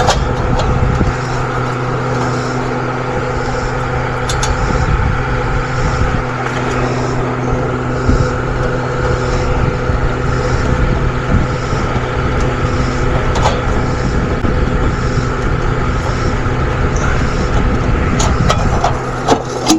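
A steady mechanical drone with a constant low hum, running without change, with a few light clicks here and there.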